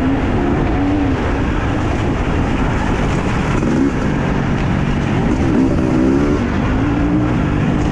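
Husqvarna TE 250i two-stroke enduro motorcycle engine being ridden hard, its pitch rising and falling again and again as the throttle is worked over a steady rush of noise.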